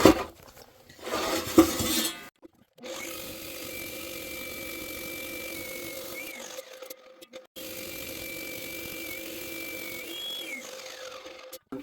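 Electric concrete saw running at a steady pitch in two stretches, its tone dipping and recovering slightly as the blade takes load in the slab. A loud knock or scrape sounds about a second and a half in, before the saw runs.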